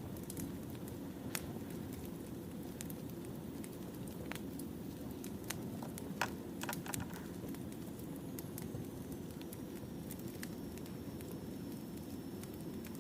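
Wood fire burning: a steady low rumble with scattered sharp crackles and pops, a few louder pops together about six seconds in.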